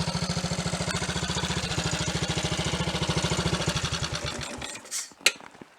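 Triumph Tiger Cub's single-cylinder four-stroke engine idling evenly, then dying away to a stop about four and a half seconds in, followed by a couple of sharp clicks. It is running smoothly with no misfire, its loose distributor re-clamped and the ignition timing restored.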